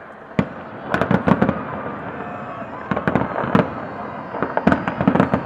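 Aerial fireworks bursting in a large display: a single sharp bang about half a second in, a quick cluster of bangs around one second, then more at irregular intervals and another cluster near the end, over steady background noise.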